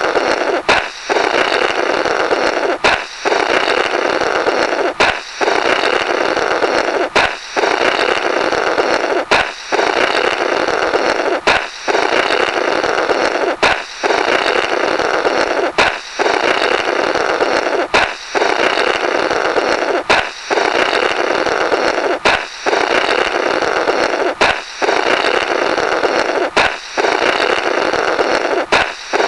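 Comic "Blorrrt" balloon-break effect, looped: a sharp balloon pop, then a noisy blow through the burst rubber remnants lasting about two seconds. The pair repeats about every two seconds, some thirteen times.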